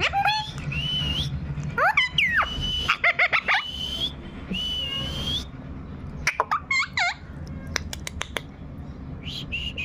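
Pet parrot whistling and calling: three held high whistles that rise at their ends, quick sweeping calls, and sharp clicks in between.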